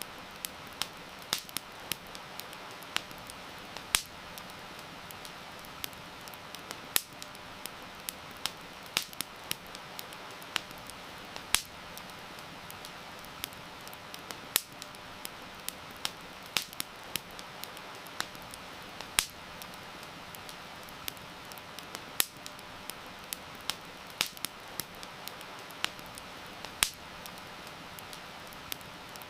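Wood fire crackling with sharp, irregular pops, several a second at times, over a steady hiss of rain.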